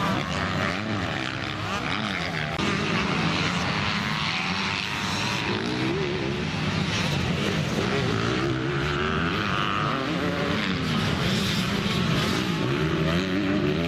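Motocross bike engines racing, their pitch rising and falling as the riders work the throttle and shift. The sound cuts in abruptly at the start.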